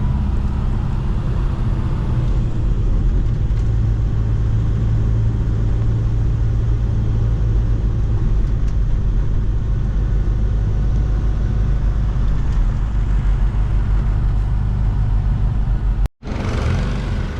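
A car engine running steadily with a low, even rumble. The sound breaks off abruptly about sixteen seconds in and a different car sound follows.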